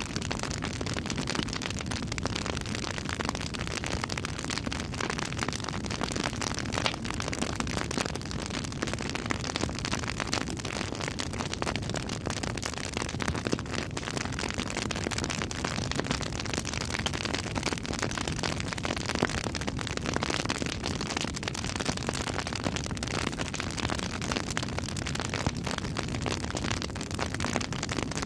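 Campfire burning: a steady rush of flame with dense crackling and scattered louder pops as the wood burns.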